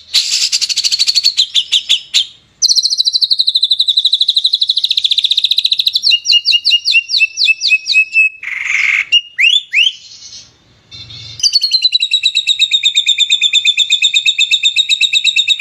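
Recorded songbird song played as a masteran, a song lesson for captive birds: fast, sharp, high-pitched trills of rapidly repeated notes. The trill pattern changes abruptly every few seconds, and after a short break about ten seconds in a long, even rapid trill runs on.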